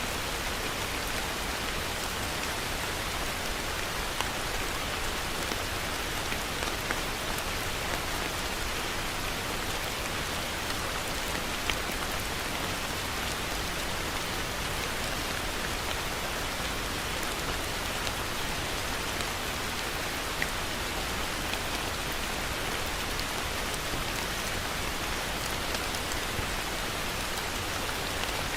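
Steady heavy rain falling, an even hiss with a few sharper drop ticks now and then.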